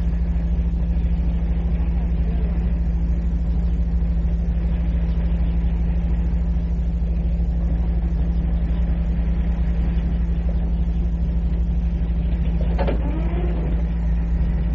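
Ambient cassette tape recording: a steady low drone under constant tape hiss, with a sharp click about thirteen seconds in and faint voices after it.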